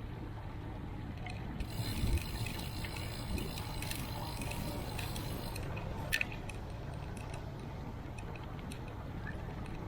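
Steady wind and road rumble from a bicycle ride. Starting about two seconds in, a higher hiss with fine ticking joins for about four seconds, and there are a few sharp clicks.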